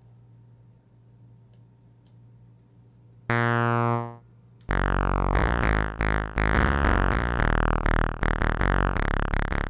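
Synthesizer presets sampled from vintage synths: after a quiet stretch with a faint hum and two soft clicks, one loud held synth note sounds a little over three seconds in. From about five seconds a sequence of short, decaying synth notes repeats at about three notes a second.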